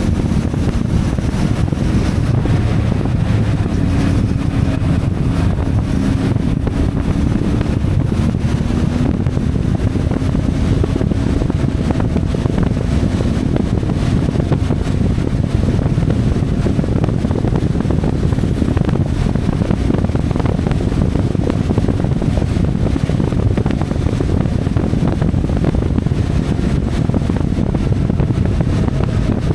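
CFMoto 450MT motorcycle's parallel-twin engine running steadily under way, its note drifting slightly as engine speed changes, with wind rushing over the microphone.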